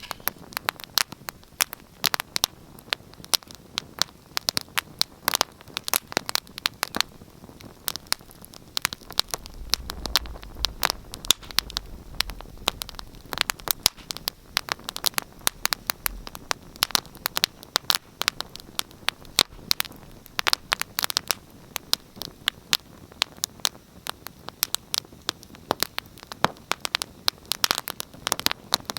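Wood fire crackling in a fireplace: irregular sharp snaps and pops, several a second, over a soft hiss of burning. A low rumble rises for several seconds in the middle.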